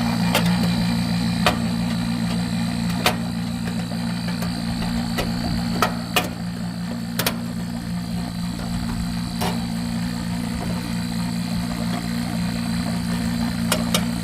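Refrigeration vacuum pump running steadily while it evacuates the system, a constant motor drone, with scattered sharp clicks from handling tools and parts about ten times.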